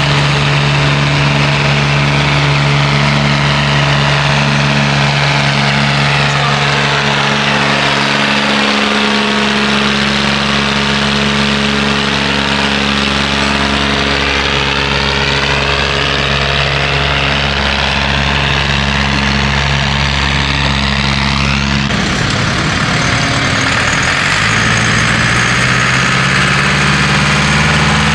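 Pulling tractor's engine running at a loud, steady idle. Its note shifts about eight seconds in, wavers about 22 seconds in, then settles and rises slightly a few seconds later.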